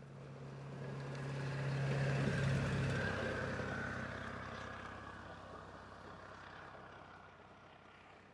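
A heavy vehicle, most likely a truck, drives past. Its engine and tyre noise swell to the loudest point about two and a half seconds in, then fade, and the engine hum drops in pitch as it goes by.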